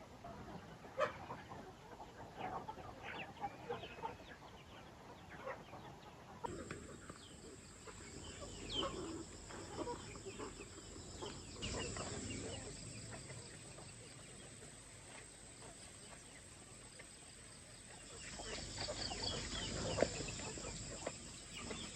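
Domestic chickens clucking with short, scattered calls. About six seconds in, a steady high-pitched whine joins them.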